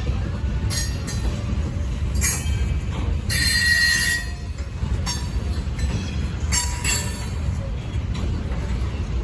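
CSX freight train cars rolling past with a steady low rumble, broken by several short high-pitched wheel squeals; the longest and loudest comes about three seconds in.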